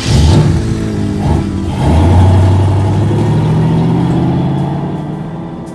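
Classic Ford Mustang's engine bursting into life, revving about two seconds in, then running with a low steady drone that gradually fades away.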